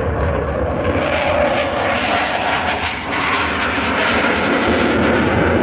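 Military aircraft flying over at a flying display: loud, steady engine noise that holds through, dipping briefly about three seconds in.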